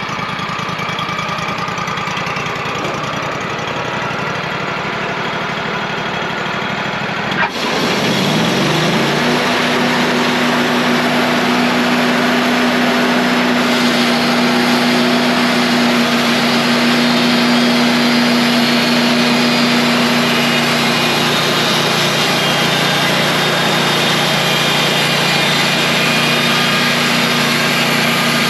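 Wood-Mizer portable band sawmill's engine running steadily. About seven seconds in there is a click, then the engine revs up and settles into a steadier, higher-pitched run as the mill is brought up to cutting speed.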